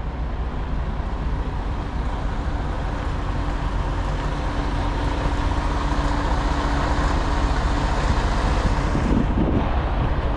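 Steady low rumble of a semi-truck's diesel engine running at idle.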